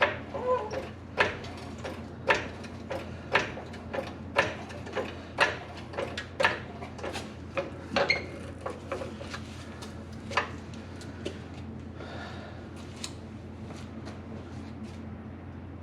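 Repeated sharp metal knocks, about one a second for roughly ten seconds, then only a few faint ticks over a steady low hum.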